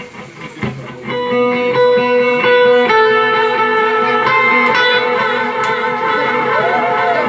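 Guitar playing sustained chords and notes, getting louder about a second in.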